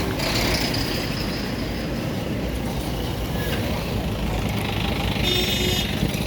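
Heavy road traffic of trucks and buses with engines running, a steady low rumble. A short high-pitched tone sounds about five seconds in.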